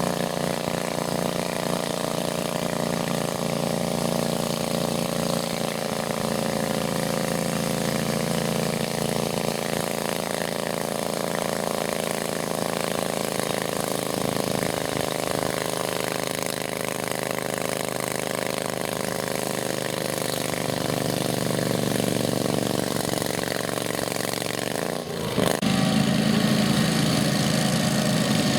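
Small garden tractor engine running steadily. Near the end its pitch wavers briefly and it then runs louder.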